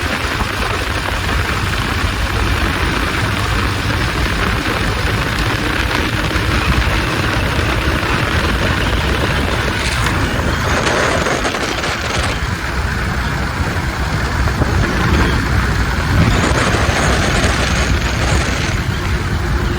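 Engine of a roughly 100-year-old Hupmobile running hard as the car drives a timed quarter-mile run, with a steady rush of road and wind noise over it.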